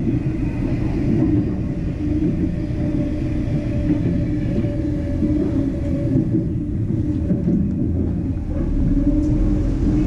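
Running noise heard aboard a 25T passenger coach on the move: a steady rumble of wheels on the rails, with a steady hum under it.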